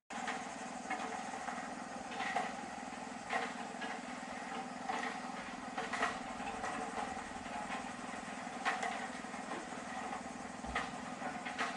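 A steady mechanical hum with irregular sharp knocks and clicks about once a second.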